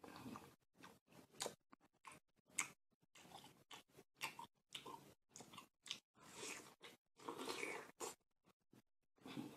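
Close-up eating of raw watermelon: biting into the flesh of a slice and chewing it, an irregular run of short bites and chewing noises, with two longer stretches of chewing in the second half.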